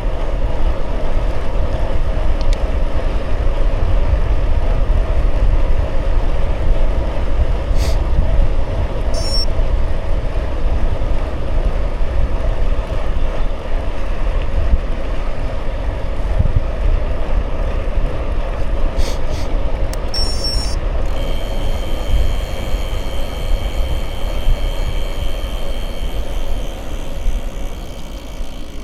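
Wind buffeting the microphone and tyres rolling on the road while cycling, a steady loud rumble. About three-quarters of the way through, a faint steady high tone joins it.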